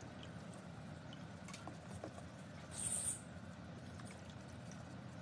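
Faint scattered light clicks and taps, with one short hiss about three seconds in.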